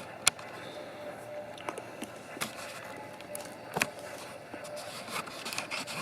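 Faint steady hiss broken by a few sharp clicks or snaps, the loudest about a third of a second in, others at about two and a half and four seconds.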